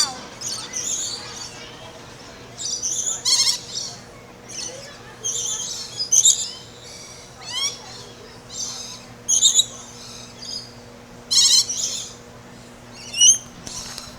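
Songbirds chirping and twittering in repeated short high bursts, every second or so, some of them quick buzzy trills.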